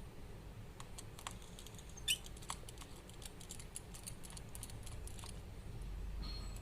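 Light, irregular clicks and taps of small tools on a smartphone's internal parts during disassembly, with one sharper click about two seconds in.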